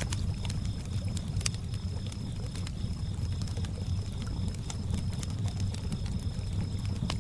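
Campfire crackling with scattered sharp pops over water lapping, with crickets chirping in a steady, evenly repeating high trill.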